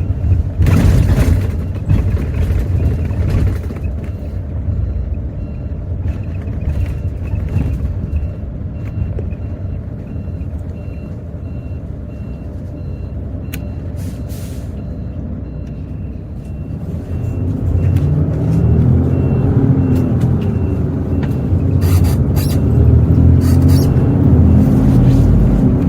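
Hino J08E-VD diesel engine of the bus heard from inside the cabin. It runs at low revs while a short beep repeats at an even pace. About two-thirds of the way in the engine grows louder, its pitch rising and dropping as the bus pulls away through the gears of its manual gearbox.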